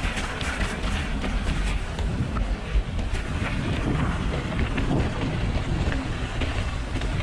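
Wind buffeting the microphone with a steady low rumble and many small rattles and clicks, as from a camera carried on a moving ride over rough ground.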